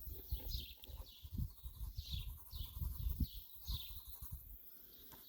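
Small songbird chirping: a run of short, high, falling notes about every half second, over a low rumble.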